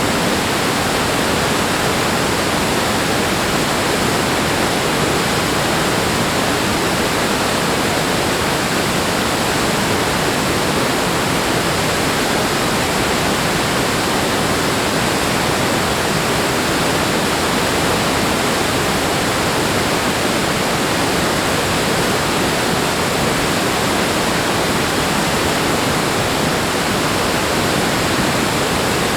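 Steady, unbroken rush of fast-flowing water, even and loud, with no surges or breaks.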